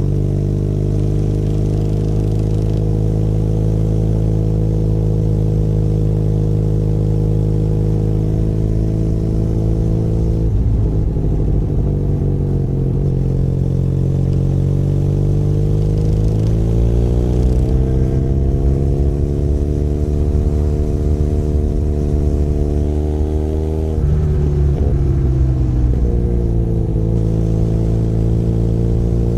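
Benelli Leoncino 500 Trail motorcycle's parallel-twin engine running at steady revs under way. About ten seconds in, the revs fall away and dip, then climb steadily for several seconds. About two-thirds through they drop sharply, then settle at a steady pitch again.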